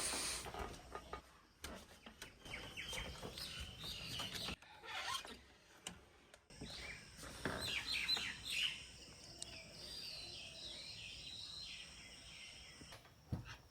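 Wild birds chirping and calling in forest, many short high chirps overlapping, with a steady high-pitched hiss joining about halfway through.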